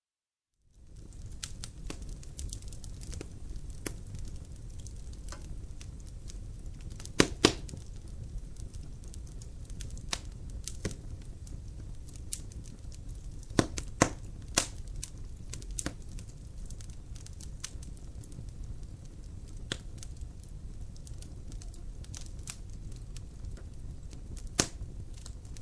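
Wood fire crackling in a fireplace: a steady low rumble of flames with scattered sharp pops, the loudest a pair about seven seconds in and a quick cluster around halfway. It starts after a brief moment of dead silence.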